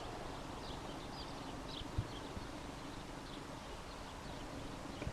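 Small birds chirping in woodland, with many short high calls scattered through, over a faint steady hum. A single low thump comes about two seconds in.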